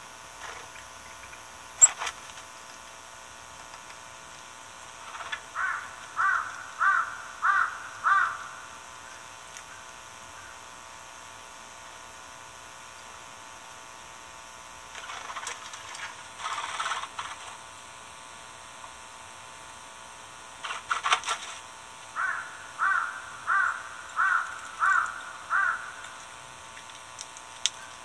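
A bird calling in two runs of about five short, evenly spaced repeated notes, the first about five seconds in and the second after about twenty-two seconds. There are brief rustles in between and a single sharp click near the start.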